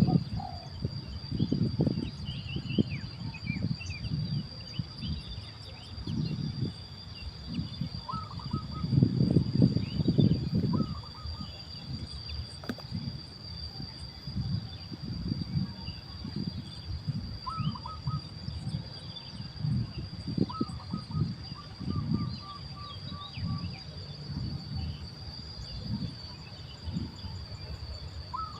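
Outdoor ambience: a steady high-pitched insect drone, with short bird calls every few seconds, including one run of quick repeated notes about three-quarters of the way in, over uneven low rumbling.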